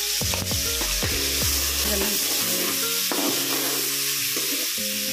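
Chopped tomatoes sizzling in hot oil in a steel kadai. A metal perforated spatula stirs them, clicking and scraping against the pan in the first two seconds or so.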